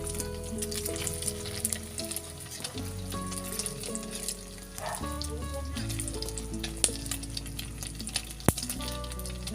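Eggs frying in hot oil in a pan, a dense steady crackle and sizzle with sharp pops, under background music with a melody and bass.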